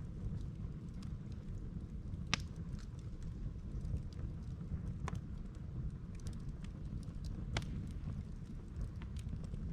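Campfire of split firewood burning, crackling with irregular sharp pops, three of them louder, over a steady low rumble.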